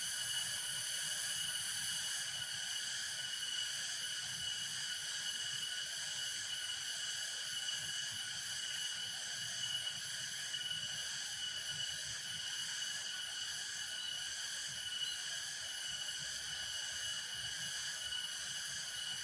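Steady insect chorus: a continuous high-pitched trill with a fine, fast pulsing that holds even throughout, over a faint low background hiss.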